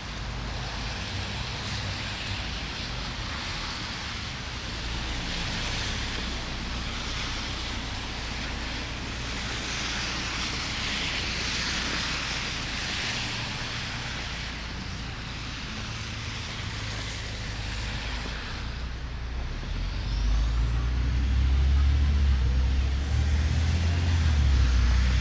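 Street traffic passing: a steady hiss of vehicles moving along a snowy city street. About two-thirds of the way in, a heavy vehicle's low engine rumble grows louder and stays near, with a faint high rising whine.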